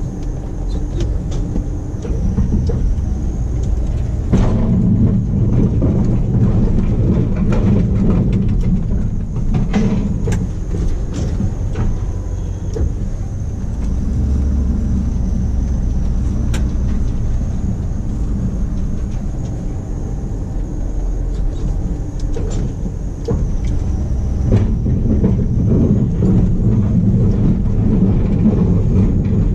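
1991 Dodge W350 pickup's 360 V8 engine running steadily while the truck plows snow, with louder stretches from about four seconds in and again near the end.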